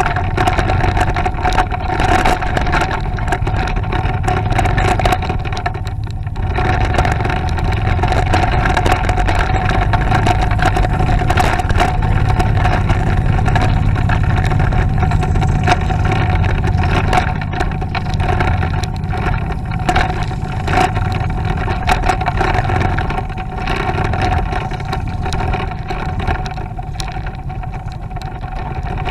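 Motorcycle engine running steadily while riding, mixed with low wind and road rumble. The engine note dips briefly about a fifth of the way in and eases off somewhat toward the end.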